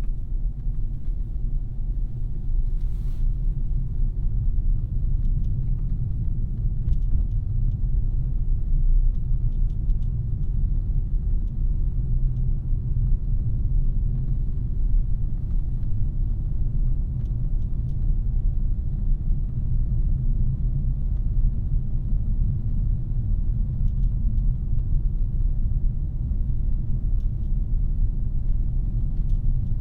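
A 2017 Audi A3's 2.0-litre turbocharged four-cylinder and tyres heard while driving at a steady pace: a continuous low rumble of road and engine noise.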